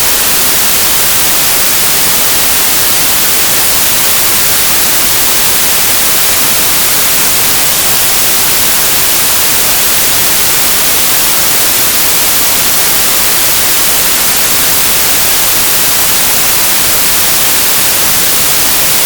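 Synthesized white noise: a steady, even hiss, bright and heavy in the high end, with no changes or events.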